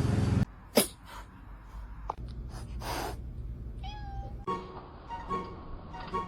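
A loud, noisy passage cuts off abruptly about half a second in. A cat then meows once, a short wavering call about four seconds in, over faint background noise.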